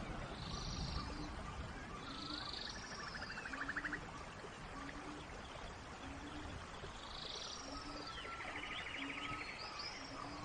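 Steady rain hiss in a forest with birds calling over it: several arched whistled calls, two buzzy trills, and a short low note repeating about once a second.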